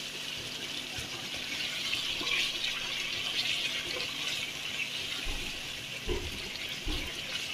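Boneless chicken in cream sizzling steadily in a frying pan while being stirred with a spoon, as it is fried down (bhuna). There are three low thumps in the last couple of seconds.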